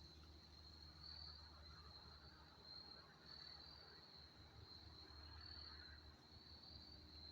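Faint, steady chorus of insects: a continuous high-pitched trill that gently swells and fades every second or so.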